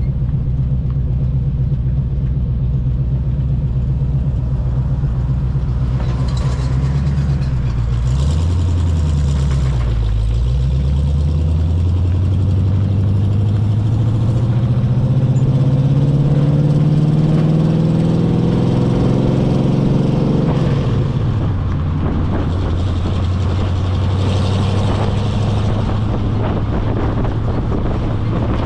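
1980 Chevy K20's 350 small-block V8 pulling a load on the road: the engine note dips briefly twice about a third of the way in, then climbs steadily for about ten seconds before dropping back and running steady.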